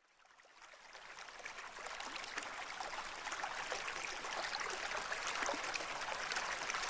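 River water flowing and trickling, a steady rush dotted with fine splashes, fading in from silence over the first couple of seconds.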